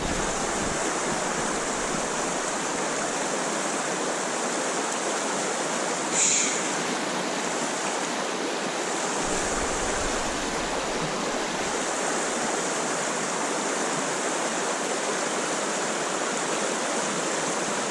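Creek water rushing steadily, an even hiss, with a brief louder flare of it about six seconds in.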